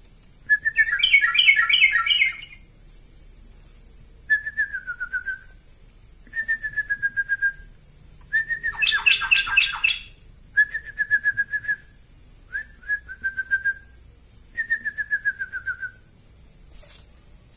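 Yellow-vented bulbul singing: about seven short phrases of fast bubbling notes, each easing slightly down in pitch, separated by brief pauses, with two of the phrases louder and fuller. A faint steady high whine runs underneath.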